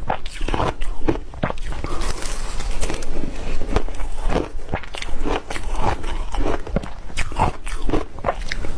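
Crunchy ice being bitten and chewed close to the microphone: a dense run of sharp, irregular crunches, several a second.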